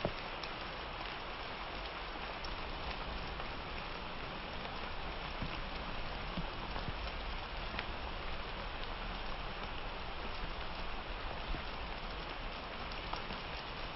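Steady summer rain falling, an even hiss with scattered sharper drop ticks on surfaces.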